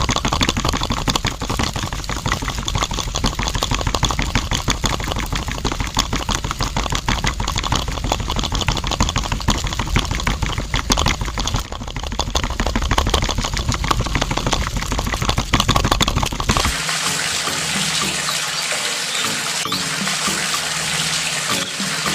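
Water pouring and splashing, with a low rumble under it for the first sixteen seconds or so; then the rumble stops and a steadier, higher hiss of running water carries on.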